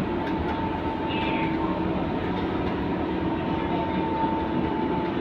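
Scania K230UB single-deck city bus, with its five-cylinder diesel, running along the road: a steady engine and drivetrain whine over road and tyre noise.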